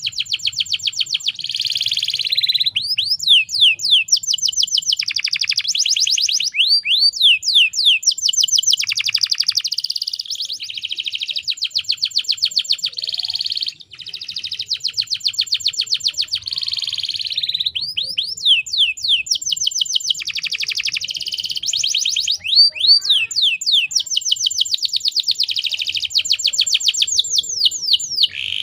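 Canary singing long runs of rapid, evenly repeated high trills, joined by sweeping whistled notes and broken only by short pauses, the longest about halfway through.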